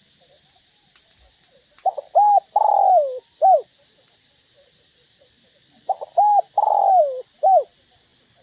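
Spotted dove cooing: two identical phrases about four seconds apart, each a short note, an arched coo, a longer falling coo and a short closing note.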